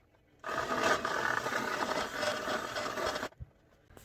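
Handheld electric power tool running, boring out a hole in the snowblower's plastic housing, for nearly three seconds; it starts and stops abruptly.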